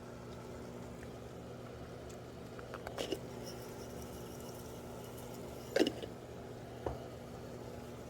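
Kitchen cooking sounds: a steady low hum with a few short clatters of a utensil against a skillet or pan. The loudest clatter comes a little before six seconds in, with a smaller one about a second later.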